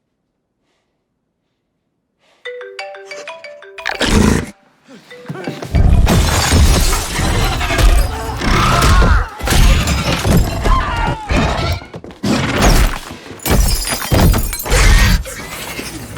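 Film soundtrack: dead silence, then a short run of stepped musical notes, cut off by a sudden loud crash. Loud crashing and breaking follows under dramatic music.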